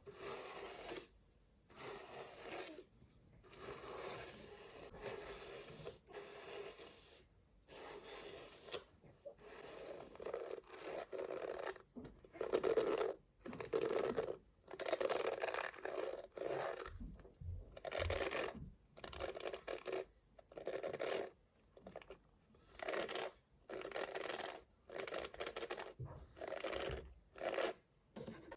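Massage hairbrush making repeated scratchy, rustling strokes, about one a second in the latter part.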